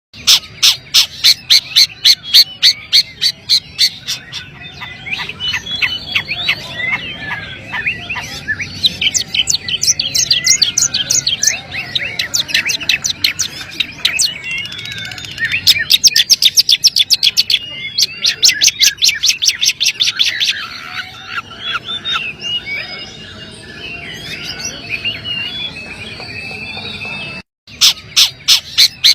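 Long-tailed shrike (cendet) singing: runs of rapid, evenly spaced sharp calls alternating with varied chattering warbles, with a brief break near the end before the rapid calls start again.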